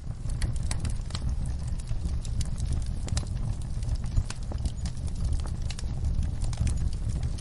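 Wood fire burning in a fireplace: a steady low rumble of flames with irregular sharp crackles and pops, one louder pop about four seconds in.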